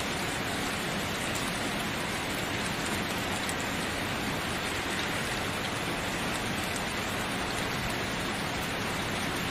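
Steady rain falling on a surface, an even hiss of many drops with no breaks.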